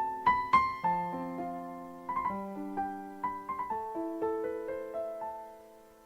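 Background solo piano music: a slow melody of single struck notes, each ringing and decaying, that fades to quiet near the end.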